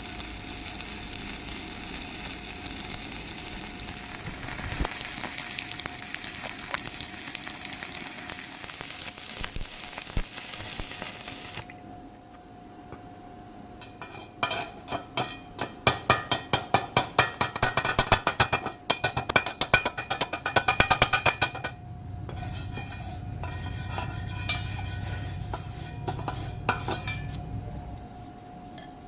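Stick-welding arc crackling and hissing steadily, cutting off about twelve seconds in. After a short lull there is a run of rapid metallic strikes and scrapes, several a second, for about eight seconds, then quieter clinks over a low hum.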